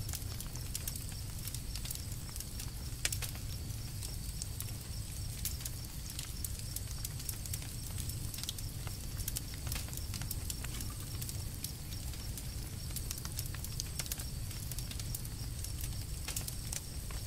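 Campfire crackling: many small snaps and pops over a low rumble, with one louder pop about three seconds in.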